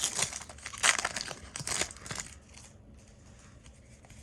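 Foil Yu-Gi-Oh! booster pack wrapper crinkling and tearing, in about three loud rustling bursts over the first two seconds.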